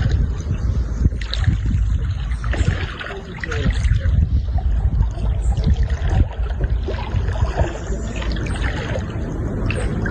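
Loud rushing floodwater, a steady churning wash with small irregular splashes, over a low rumble of wind on the microphone.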